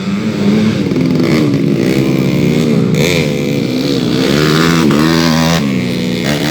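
Several 130cc underbone race motorcycles revving hard, their overlapping engine notes repeatedly rising and falling as they accelerate and change gear.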